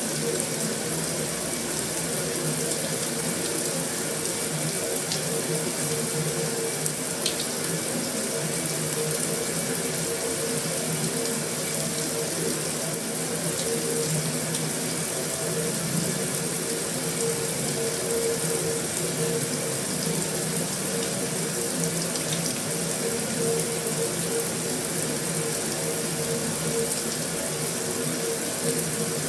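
Heavy rain falling steadily on a metal roof, an even hiss with no let-up, with a few faint single drop ticks standing out.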